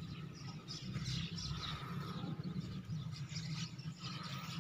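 Faint outdoor ambience: a low steady rumble with scattered small bird chirps.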